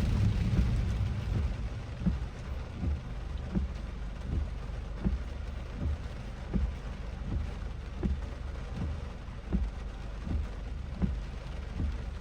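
Heavy rain heard from inside a moving car, over a steady low rumble of road and engine. A soft thump repeats about every three-quarters of a second, in the rhythm of windshield wipers sweeping.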